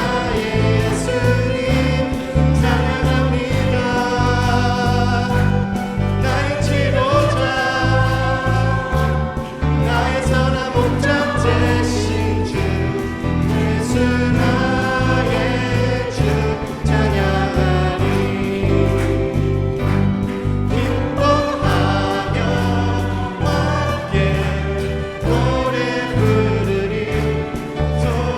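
Church praise team singing a worship song together with instrumental accompaniment and a steady beat.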